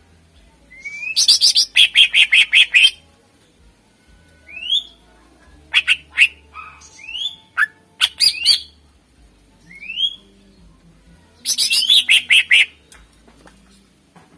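Greater green leafbird (cucak ijo) singing: two runs of rapid repeated notes, about eight a second, one about a second in and one near the end, with single rising whistled upslurs and short chips between them.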